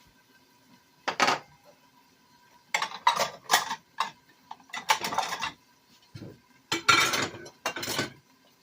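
Kitchen utensils knocking and scraping against dishes in a string of short, irregular clatters, as a cornstarch gravy is mixed.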